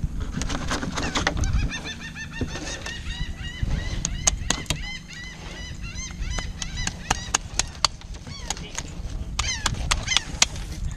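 A bird calling in rapid runs of short calls, a long run in the first half and a brief one near the end, over sharp clicks and scrapes of knives filleting fish on a fiberglass table.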